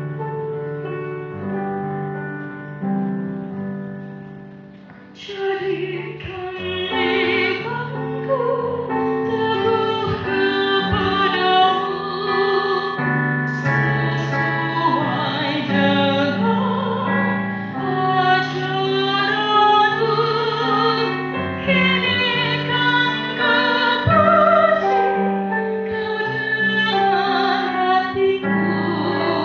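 Keyboard accompaniment plays alone, then about five seconds in a young woman's solo voice enters, singing in a pop-opera style with strong vibrato over the keyboard.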